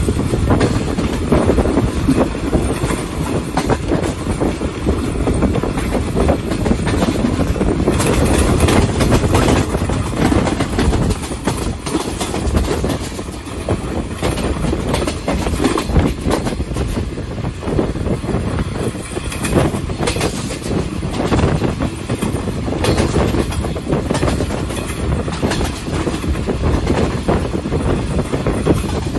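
Tezgam Express passenger train running at speed, heard from an open coach window: a steady rumble of wheels on rail with repeated clattering over the rail joints.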